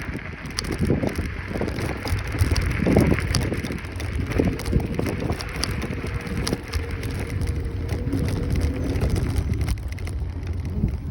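Riding a Kaabo Wolf Warrior 11 Pro electric scooter: wind buffeting the microphone over a low road rumble, with many small rattling clicks. A faint steady whine comes in a little before halfway and fades out near the end.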